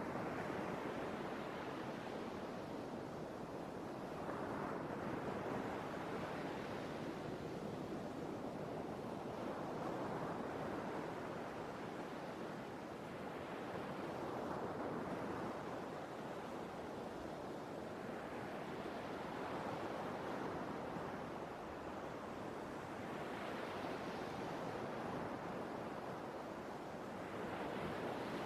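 Sea waves washing in, a steady wash that swells and falls back about every four to five seconds.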